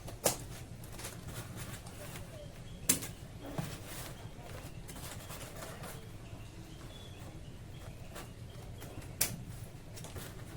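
Sharp knocks and clicks from handling a mini fridge and its packaging during unboxing, over a low steady hum. The loudest come about a third of a second in, near three seconds and about nine seconds in.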